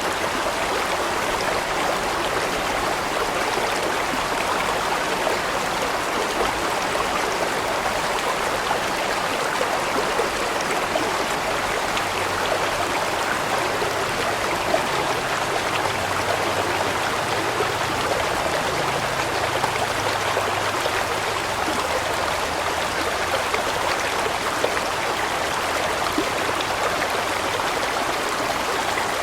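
A large mountain stream flowing over rocks: a steady, even rush of running water with fine splashing and trickling.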